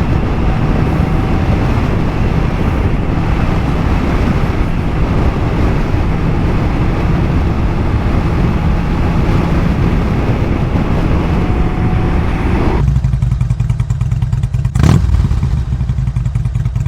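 Honda CBR650R inline-four running while being ridden, its low engine note under heavy wind rush. About 13 seconds in the wind noise cuts off abruptly, leaving a steadier engine note with a single sharp knock.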